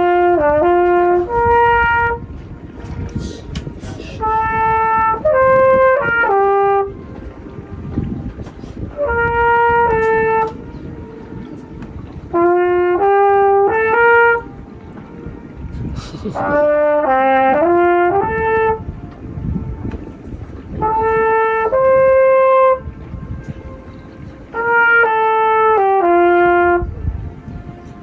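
A lone trumpet played by the boatman on a lake boat, sounding short phrases of a few held notes with pauses between them. It is played to show off the echo that comes back from the steep mountain walls. A low steady rumble runs underneath.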